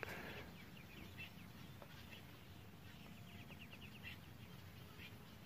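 Faint bird calls, with a quick run of short chirps about three seconds in.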